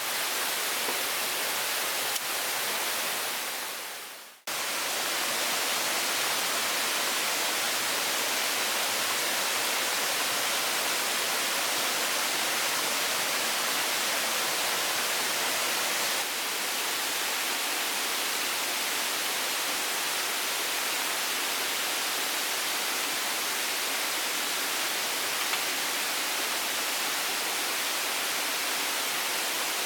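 Steady rushing hiss of water. It fades out about four seconds in, then cuts straight back in.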